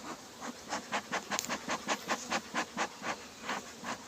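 Honeybees buzzing around an opened hive, coming and going in short pulses of about four or five a second as they pass close by. The colony has been disturbed and is agitated.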